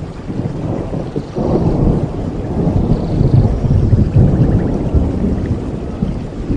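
Thunder rumbling over steady rain, swelling about a second and a half in and easing slightly near the end.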